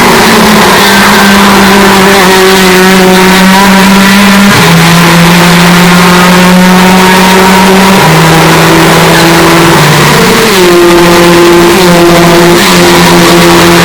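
Hyundai Elantra N's turbocharged 2.0-litre four-cylinder engine running at a held, steady pitch that steps down twice, about four and a half and eight seconds in, then rises again about ten seconds in. Very loud, overdriven audio.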